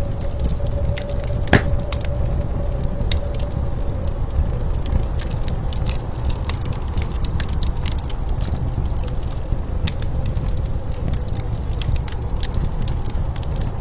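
Wood fire crackling and popping with many small sharp snaps and one louder crack about a second and a half in, over a steady low rumble of blizzard wind.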